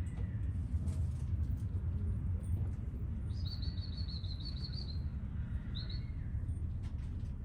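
A small songbird gives a quick run of high chirps about three seconds in, then a short pair of notes a little later, over a steady low rumble.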